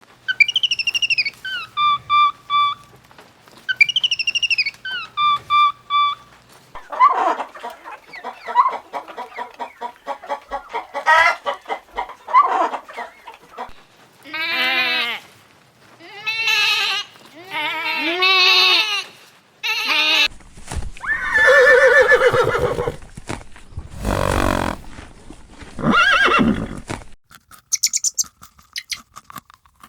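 A string of separate animal calls, farm animals among them, one after another with pauses between. A short gliding, whistle-like phrase plays twice at the start, and the loudest calls come between about 20 and 27 seconds in.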